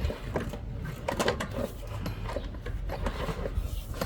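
Drain inspection camera's push-rod reel turning as the rod is fed into the drain, with an uneven mechanical clicking and rattling.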